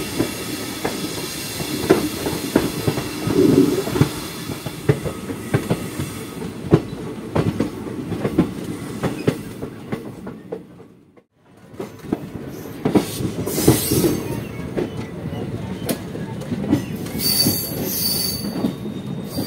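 Moving Indian Railways passenger train heard from an open coach doorway: a steady rumble with the wheels clicking over rail joints. The sound briefly drops out about eleven seconds in, and near the end a high wheel squeal sets in as the train rounds a curve.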